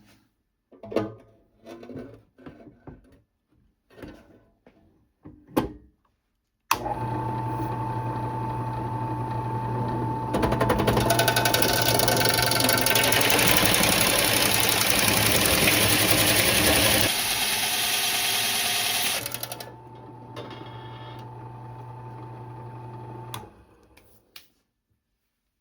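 A few knocks and clicks of handling, then a Sears Craftsman 8-inch benchtop drill press is switched on and runs with a steady hum at its slowest belt speed. After about four seconds the bit bites into thin, flimsy sheet metal and a loud harsh cutting noise lasts for about seven seconds, then the motor runs on alone, quieter, and is switched off shortly before the end.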